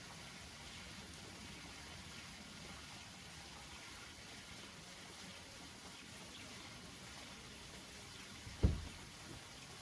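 Steady rain pattering on banana leaves, with one heavy low thud near the end followed by a softer one.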